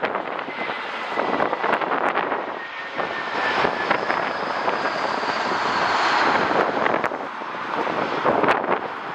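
Jet airliner's engines passing close by, a steady rush with a thin whine that slowly falls in pitch and swells to its loudest about six seconds in. Gusty wind buffets the microphone.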